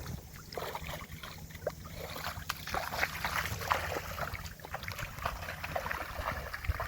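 Water lapping and trickling against a boat's hull, with many small scattered splashes and knocks, over a low steady hum.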